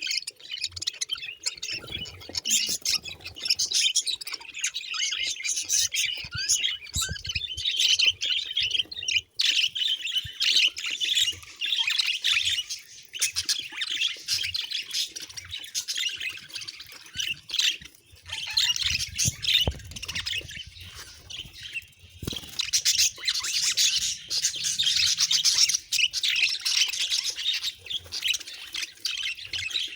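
Budgerigars chirping and chattering without a break, with rapid warbling notes and occasional squawks.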